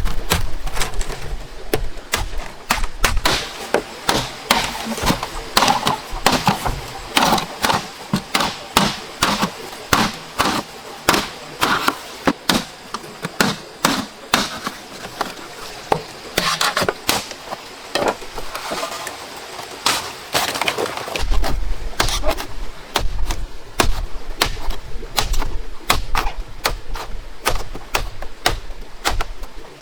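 A long run of sharp chopping blows, about one to two a second, a blade cutting into wood.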